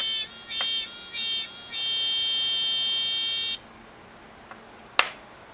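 A cicada machine imitating cicada song with a high, buzzy call: three short buzzes, then one long buzz of about two seconds that cuts off suddenly. A single sharp click comes near the end.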